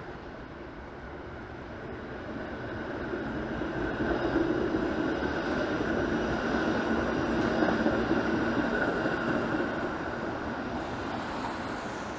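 A streetcar passing on the street, growing louder, running by with a steady hum and whine, then fading away.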